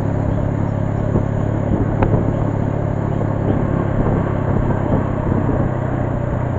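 A motor vehicle's engine running steadily, with even engine hum and road noise, and one brief tick about two seconds in.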